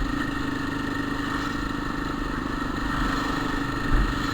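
Motorcycle engine and gearbox running steadily under way in third gear, with the growl that the rider hears from the gearbox in third since its third gear was replaced. A short bump about four seconds in.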